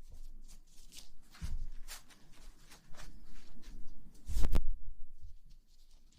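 ASMR rustling and scratching right against the microphone: irregular soft scratchy strokes with low thuds, the loudest a heavy thump about four and a half seconds in.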